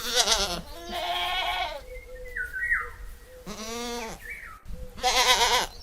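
Goats bleating: four separate bleats, the first two high-pitched and quavering, a lower one in the middle, and a last wavering one near the end.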